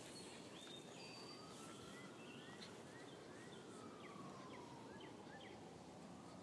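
Faint outdoor quiet with small birds chirping in short high notes in the background. A faint long whine rises over the first couple of seconds, then slowly falls away.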